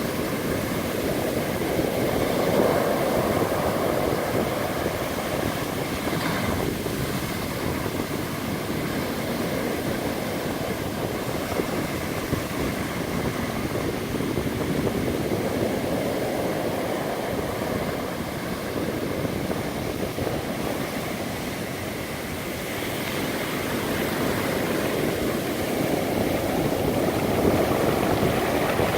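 Atlantic Ocean surf, a steady rush of waves that swells louder a few seconds in and again near the end, easing in between.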